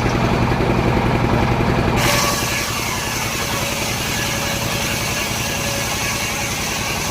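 Engine of a mobile circular sawmill running steadily with a fast, even beat. About two seconds in its note eases slightly and a steady hiss sets in.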